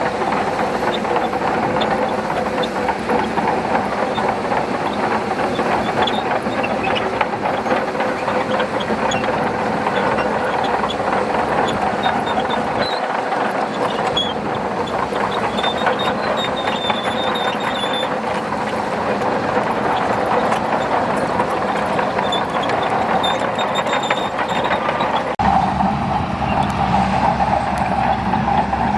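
Shantui bulldozer working, its diesel engine running steadily under the dense clatter of its steel tracks. About three-quarters of the way through the sound shifts, with more low rumble.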